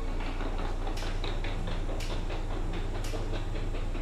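Cabin sound of an aluminium-bodied Seibu 6000 series train on the move: a steady low rumble with quick rhythmic clicking, and a sharper tick about once a second.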